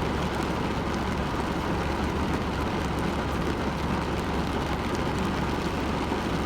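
Heavy rain falling: a steady, dense hiss with a low rumble underneath.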